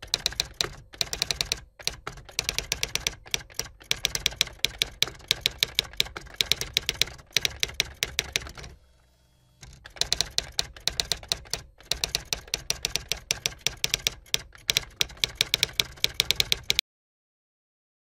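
Typing sound effect: a fast, uneven run of typewriter-like key clicks, with a brief pause about nine seconds in, stopping abruptly near the end.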